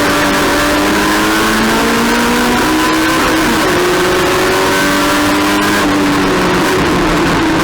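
Race car engine running hard at high revs under racing conditions, its pitch climbing slowly with a jump up about three and a half seconds in, over heavy wind and road noise.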